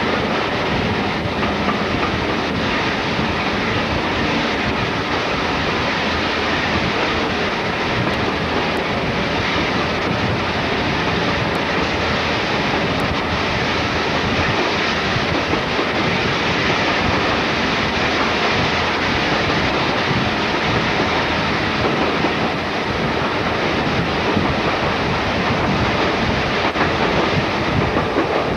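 Diesel-hauled passenger train running through a tunnel, heard from a carriage window: a steady, loud rumble of wheels on the rails, enclosed by the tunnel walls.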